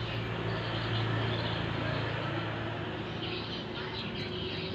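Small ketingting longtail-boat engine running at a steady idle with an even, low hum.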